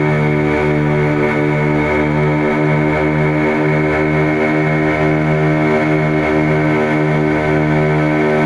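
Boat engine running steadily at cruising speed, a loud even drone with a slight regular wavering.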